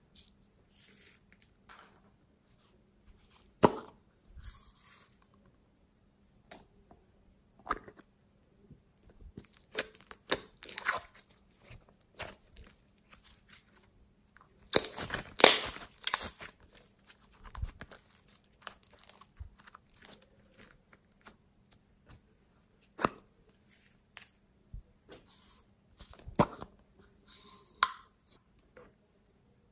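Slime being squished, stretched and pressed by hand: irregular sticky clicks and crackling pops, busiest and loudest about halfway through.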